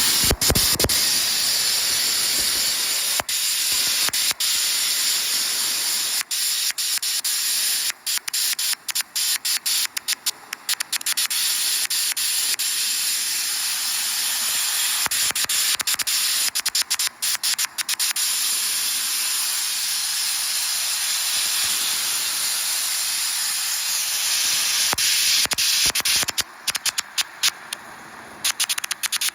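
Sandblasting nozzle running with a loud, steady hiss as it strips failed epoxy off a gunite pool surface, the blast cutting out for split seconds many times in a few stretches.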